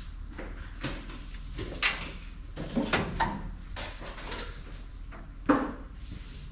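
A series of sharp knocks and clatters, the loudest about two seconds in and again near the end, over a steady low hum.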